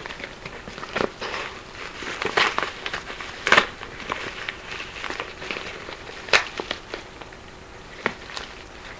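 Packaging being handled and opened: irregular crackles and sharp clicks of cardboard and plastic, the loudest about three and a half and six seconds in.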